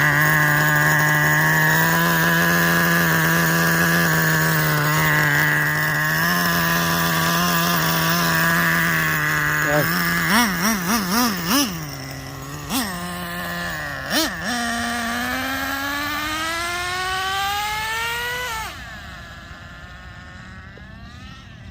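Small two-stroke nitro engine of a Traxxas Revo 3.3 RC truck running with a steady high buzz, then blipped several times in quick succession and given a few single blips. A long rising rev follows and cuts off suddenly near the end.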